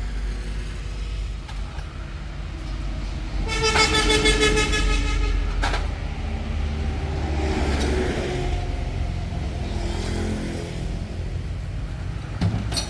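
Heavy-duty truck engine running with a steady low rumble, and a vehicle horn sounding for about two seconds a few seconds in.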